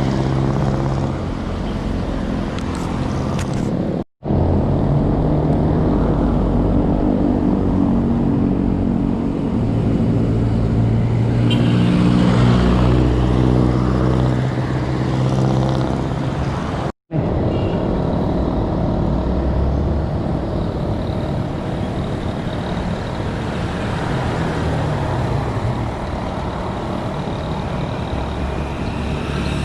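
Road traffic: motor vehicle engines running and passing. The sound drops out abruptly twice for a moment.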